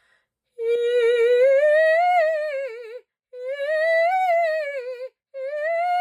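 A woman's trained classical voice doing a vocal exercise: three sustained phrases, each gliding up and back down with vibrato. The tongue is pressed slightly low to keep the mouth and throat open.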